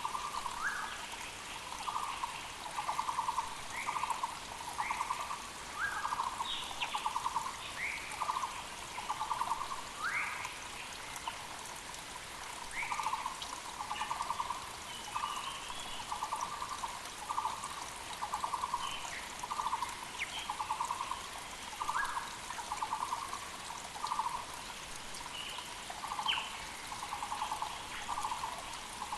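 Muller's barbets calling in a long run of repeated notes, each under a second and finely pulsed, over the steady rush of a mountain creek. Other birds put in short rising calls now and then.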